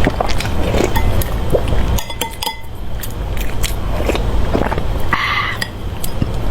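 Close-miked chewing and biting: wet clicks and crunches of a mouth eating, over a steady low rumble. A short higher-pitched sound comes about five seconds in.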